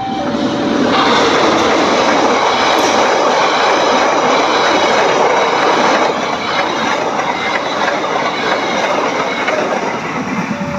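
Passenger train passing over a level crossing: a dense rushing rumble of wheels on rail with clickety-clack, loudest from about one to six seconds in. The crossing's two-tone alternating alarm is drowned out and comes back just at the end.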